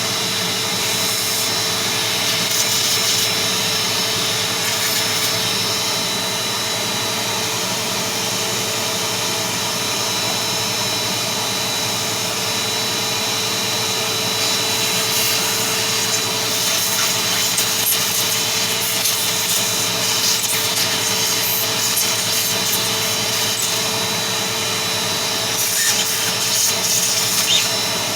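A small machine runs steadily with a constant hum and a high whine, used while cleaning dust off a table-fan motor, with bursts of rubbing and scraping now and then.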